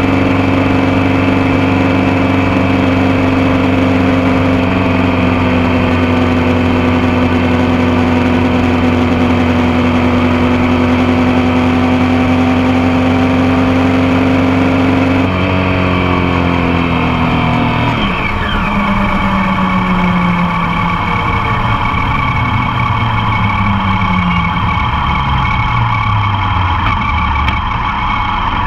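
Motorcycle engine running steadily at cruising speed with wind and road noise. About halfway through the engine note drops, and it then falls in pitch in several steps as the bike slows.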